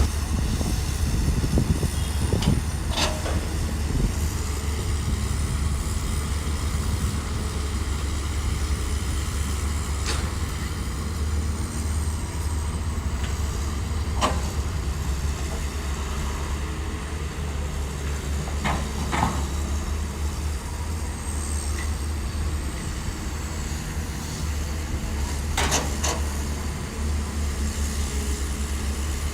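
Bulldozer's diesel engine running steadily with a deep rumble, broken by several sharp knocks spaced several seconds apart.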